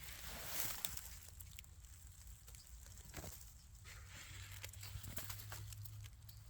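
Faint rustling with scattered small cracks, as of movement through dry forest litter, over a low steady rumble.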